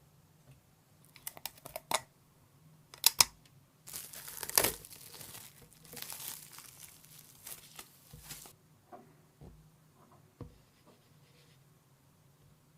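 Workshop handling noises: a few sharp clicks, then several seconds of tearing and crinkling, then a few scattered light knocks.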